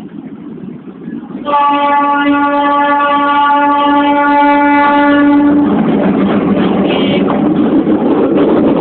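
Diesel locomotive horn sounding one long steady blast of about four seconds, starting about one and a half seconds in. The loud rumble of the train running past follows, with the horn tone weaker underneath.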